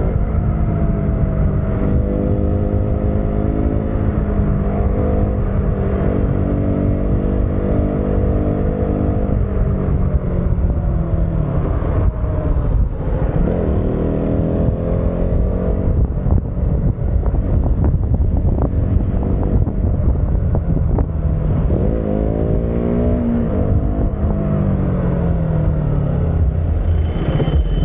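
Motorcycle engine running while riding. Its pitch holds steady for a while, then drops and climbs again twice as the engine slows and picks up, with a constant wind rumble on the microphone.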